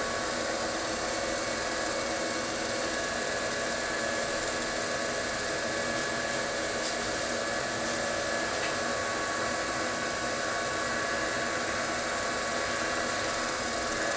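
Wood lathe running steadily with the bowl spinning during sanding: an even motor whine over a constant rushing noise.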